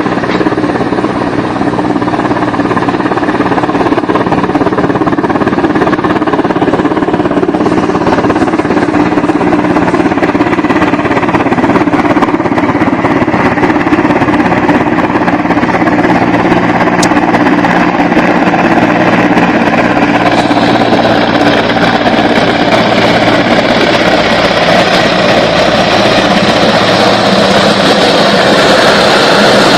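Mi-17 V5 military helicopter's twin turboshaft engines and rotor running loud and steady close by, getting louder and brighter about two-thirds of the way through.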